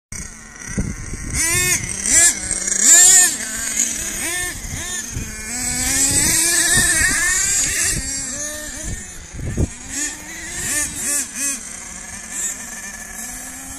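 Nitro RC monster trucks' small two-stroke glow engines revving, each whine rising and falling back over and over, with more than one engine audible at once in places.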